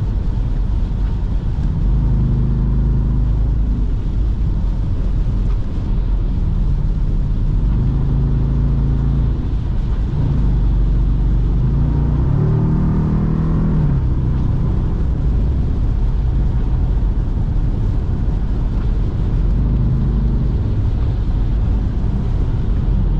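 Jeep Grand Cherokee SRT's 6.4-litre HEMI V8 with a mid-muffler delete, a steady low exhaust drone while driving, rising in pitch under acceleration a few times, most plainly about twelve to fourteen seconds in.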